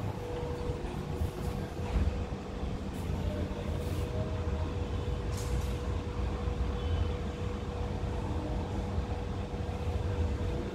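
Steady low mechanical rumble with a steady hum, and a few faint clicks.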